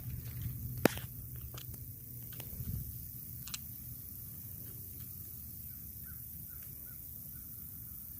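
Outdoor ambience: a sharp click about a second in and a few lighter ticks, then a steady hiss with faint short bird chirps near the end.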